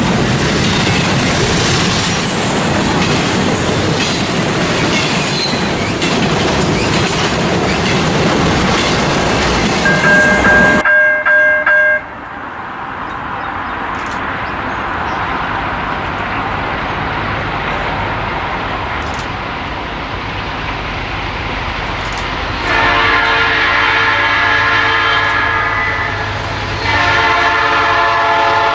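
A train passing close, its wheels clattering over the rails, for about the first ten seconds. Then a quieter locomotive rumble, and near the end the locomotive's air horn sounds two long blasts, each a chord of several notes.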